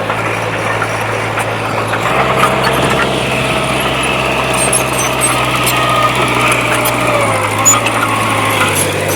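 Diesel engine of heavy earthmoving machinery running steadily. It gets louder and fuller about two seconds in, as if taking load, and eases back about seven seconds in.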